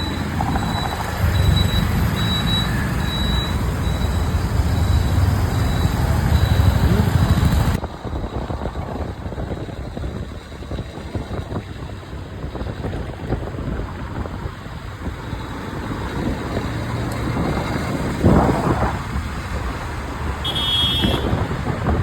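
A supercar engine running loud and low, then after an abrupt cut quieter street traffic, with a vehicle swelling past and a brief horn toot near the end.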